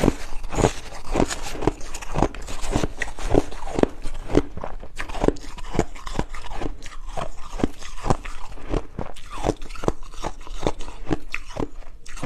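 Ice being bitten and chewed close to the microphone: a continuous run of sharp crunches, about two to three a second.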